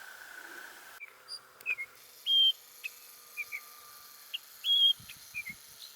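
Wild bird calling: a series of short whistled notes, with two longer, clear whistles that are the loudest sounds. In the first second a steady high-pitched hum is heard, which stops abruptly.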